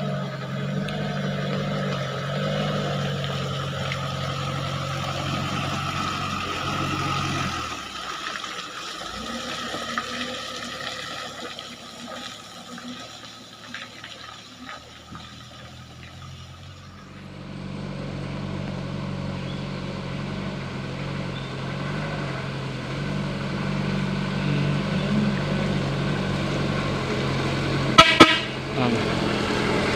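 Diesel truck engine running steadily under load, fading for several seconds in the middle, then returning. Near the end the horn gives two short, loud toots.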